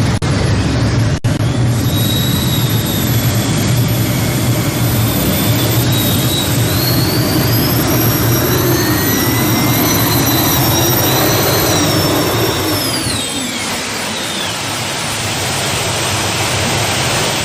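Modified pulling tractor's engine at full power under load, with a high whine that climbs through the middle of the run and winds down about thirteen seconds in as the power comes off.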